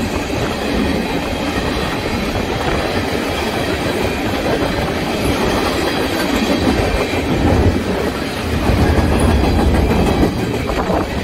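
Freight train cars, covered hoppers, a gondola and a tank car, rolling past on steel wheels in a steady, loud rumble that grows heavier in the last few seconds.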